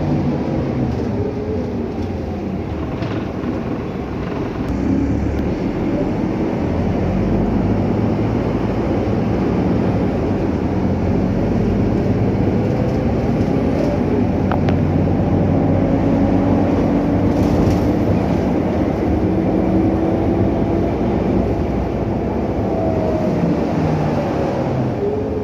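Scania K310UA articulated city bus running in motion, heard from inside the cabin: a steady engine and road drone whose pitch rises and falls as the bus speeds up and slows.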